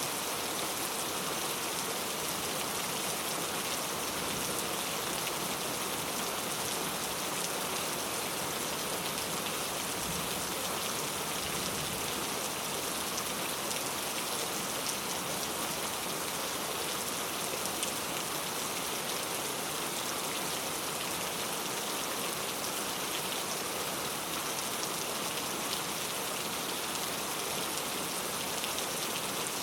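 Very heavy rain falling steadily, a dense even hiss with fine drop spatter.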